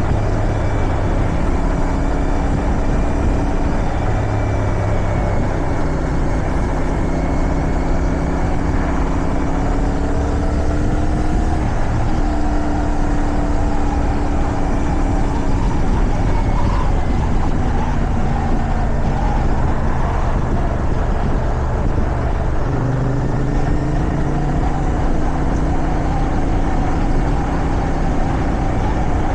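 Motorcycle engine under way, its pitch rising and falling with throttle and gear changes, over steady rushing wind noise.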